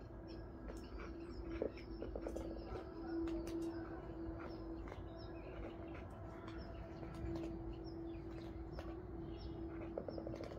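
Small birds chirping repeatedly over a steady low hum, with short soft clicks of cats eating cat food from a bowl.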